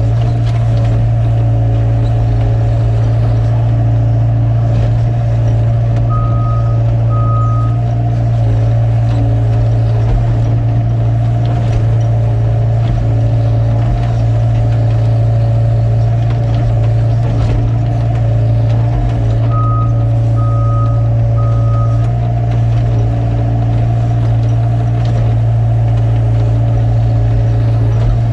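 Excavator's diesel engine running steadily, with short high warning beeps: two about six seconds in and three more around twenty seconds in.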